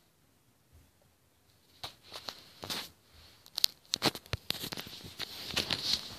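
Rustling and scratching: irregular small clicks and scrapes that start about two seconds in and grow busier toward the end.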